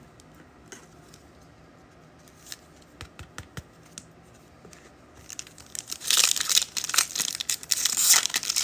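A few soft clicks, then about five seconds in, a trading-card pack's wrapper is torn open and crinkled, loud crackling that carries on to the end.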